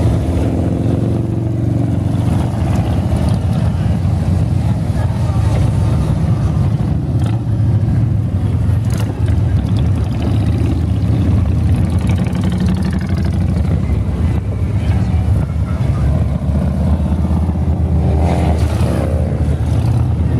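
A long stream of motorcycles riding past, their engines running in a continuous loud mass, with single bikes rising and falling in pitch as they pass, one plainly near the end.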